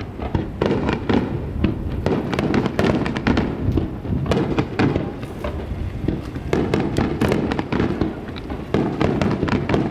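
Starmine fireworks barrage: shells launching and bursting in rapid, overlapping succession, a dense run of bangs and booms several times a second with no break.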